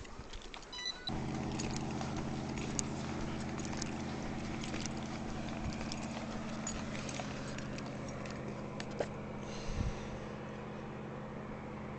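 A short electronic beep, then a steady low mechanical hum that switches on suddenly about a second in and keeps running, with scattered clicks and knocks over it.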